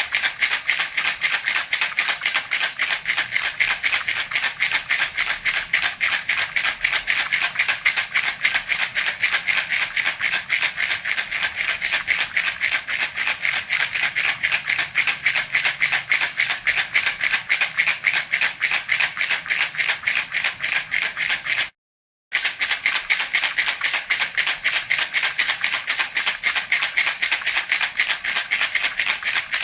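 A baby's rattle (jhunjhuna) shaken continuously in a fast, even rhythm, its beads giving a bright, crisp rattle. It cuts out for about half a second around two-thirds of the way through, then carries on unchanged.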